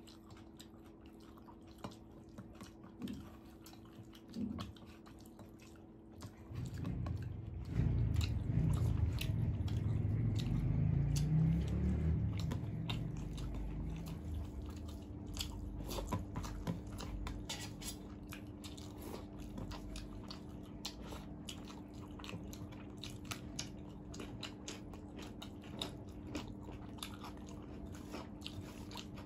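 Close-up chewing, biting and mouth clicks of two people eating rice with beguni (battered eggplant fritters) and aloo bhaja by hand. A low rumble swells about seven seconds in and fades away by about fourteen seconds, over a faint steady hum.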